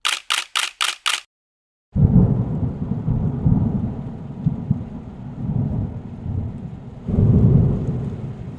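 Five quick hissing pulses, then after a short pause a long low rolling rumble like thunder, swelling again near the end, over a faint hiss of rain.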